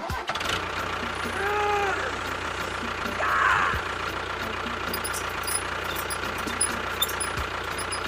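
Small tractor engine running steadily at idle. A short rising-and-falling tone sounds about one and a half seconds in.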